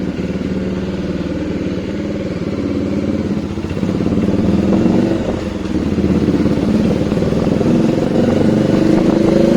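Bajaj Dominar 400's 373 cc single-cylinder engine running through an aftermarket exhaust while riding. The revs build about three and a half seconds in, ease off briefly near the middle, then climb again and hold.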